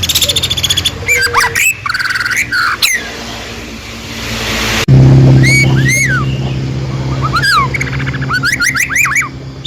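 Small songbirds chirping, repeating quick rising and falling whistled notes, over a steady low hum; about five seconds in the hum suddenly gets louder.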